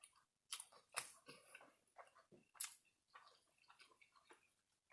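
Faint, irregular mouth sounds of someone chewing a bite of fried chicken on a donut: soft smacks and clicks, a few a second at first, the loudest about a second in and again a little past two and a half seconds.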